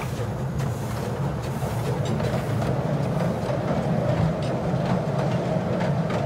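Narrow-gauge steam train passing: the locomotive, a coach and open wagons rolling slowly over a small steel girder bridge, with a steady low rumble and irregular clicks from the wheels on the rail joints.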